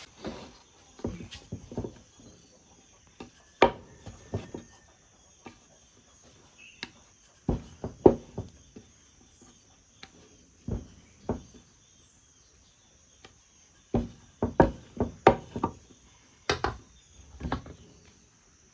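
Scattered knocks and clatter of kitchen things being handled, in clusters with pauses between, over a steady high chirring of crickets.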